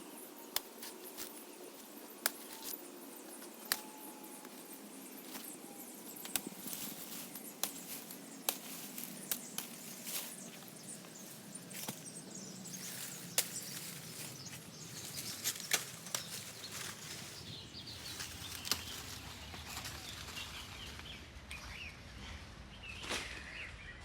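Irregular sharp clicks and taps over a steady rustling background, several of them louder than the rest.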